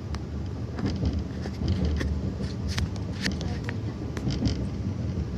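Low rumble of an Akita Shinkansen Komachi train, with scattered sharp clicks and knocks.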